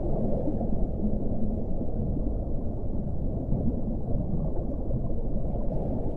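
Muffled underwater ocean rumble, a dense low wash of water with no distinct calls.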